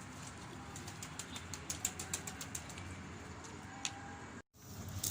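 Domestic pigeons' wings flapping as the flock comes down to land, heard as a quick run of sharp wing claps and flutters.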